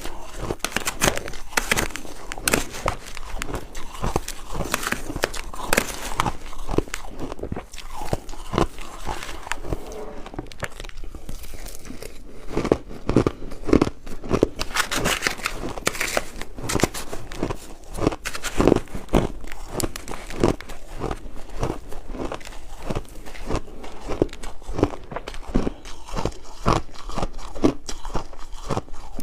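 Ice being bitten and chewed: a continuous run of sharp, crisp crunches, one after another.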